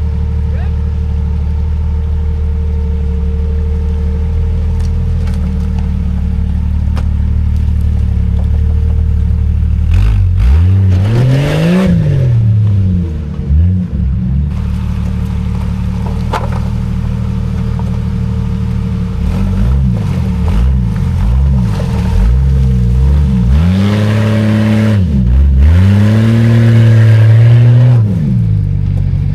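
Old Jeep Cherokee's engine running steadily, then revved up and down repeatedly from about ten seconds in, its pitch rising and falling several times and loudest near the end.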